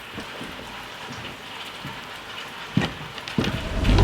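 Steady rain falling, with a sharp knock about three quarters of the way through and a deep low rumble building near the end.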